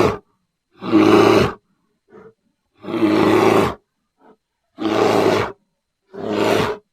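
Bear growling: a run of about five gruff growls, each under a second long, with short silent pauses between.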